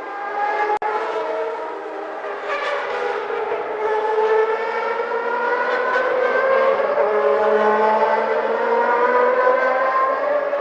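1991 Formula One car engine running at high revs, its note climbing slowly and steadily. The sound drops out briefly about a second in.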